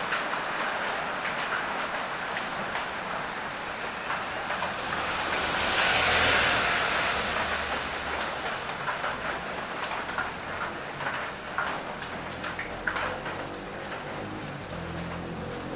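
Heavy rain falling steadily, with a vehicle passing on the wet road: its hiss swells and fades about six seconds in. Scattered heavier drips tick in the second half.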